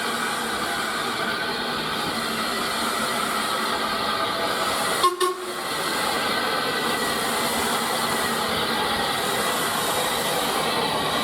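Steam train running, a steady noise throughout, broken by a brief dropout and click about five seconds in.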